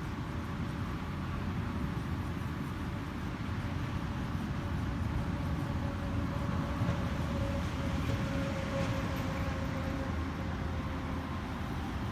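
Steady low rumble of ocean surf, with a faint droning tone over it that grows a little louder around the middle and then eases off.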